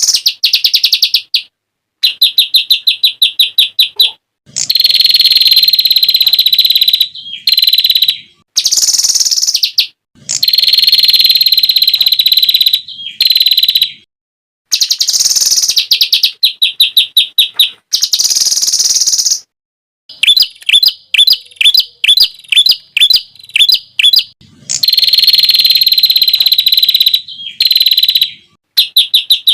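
Songbird song in loud, shrill phrases a second or two long, separated by abrupt short silences. Rapid trills of fast repeated notes alternate with held buzzing notes. This is the rapid-fire 'tembakan' material of a masteran used to tutor competition songbirds.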